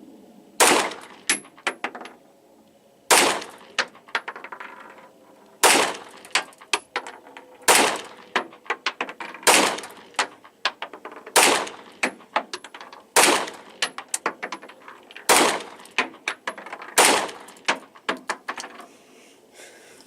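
Nine 9mm pistol shots fired about two seconds apart at a truck's door latch, each followed by a few fainter cracks.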